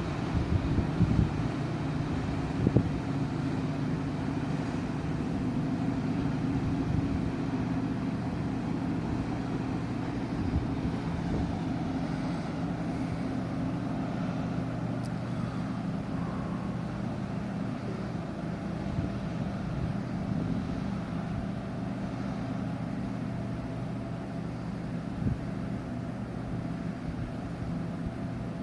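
Steady low drone of a large cruise ship's engines and machinery, with several low tones held throughout, during docking. Wind gusts on the microphone now and then.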